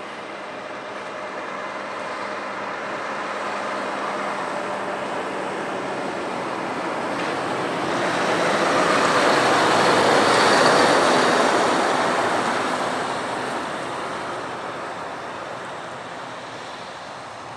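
A heavy lorry driving past: its engine and tyre noise build over several seconds, peak about ten seconds in, then fade away.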